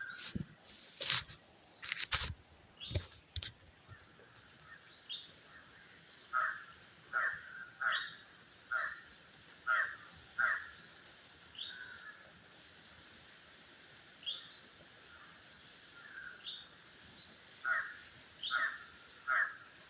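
Bird calling over and over in short calls, in runs of several about one every 0.7 seconds with pauses between the runs. A few sharp knocks or clicks sound in the first three and a half seconds.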